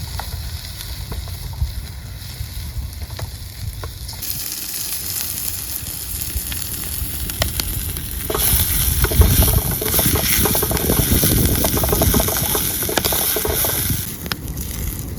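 Food frying in a pan over a wood fire, sizzling steadily with scattered small crackles. The sizzle gets louder about eight seconds in and eases off near the end.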